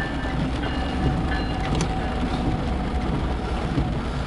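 Empty coal train rolling past: a steady low rumble of wheels on the rails with scattered sharp clicks.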